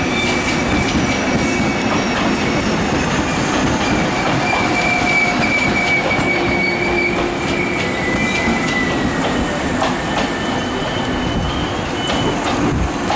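A Taiwan Railways EMU1200 'red zebra' Tze-Chiang express electric train rolls past entering the station, with a dense rumble of wheels on rail and scattered clicks over the rail joints. A steady high-pitched wheel squeal runs through it and drops slightly in pitch about eight seconds in.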